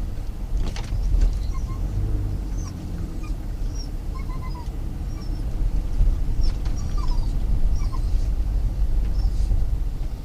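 Low road rumble of a car driving, with a dog's short, high-pitched whines scattered throughout; a few clicks come about a second in.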